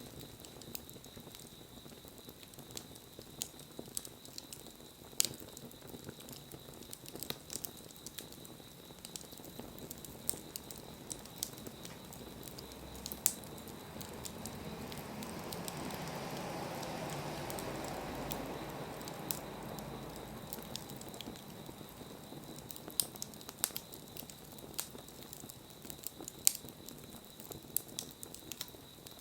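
Wood campfire crackling, with sharp pops every second or so. Midway a soft rushing sound swells up and fades away over several seconds.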